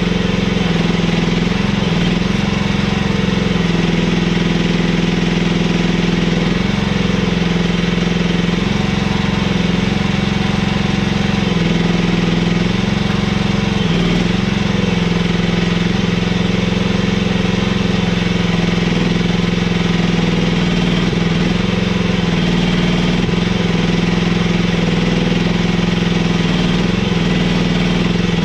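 Mini excavator engine running steadily while digging, its note dipping and recovering briefly several times.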